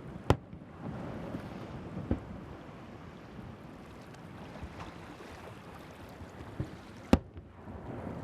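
Firework shells bursting over the sea: two sharp, loud bangs, one just after the start and one about a second before the end, with a few fainter pops between. Under them runs a steady wash of surf and wind on the microphone.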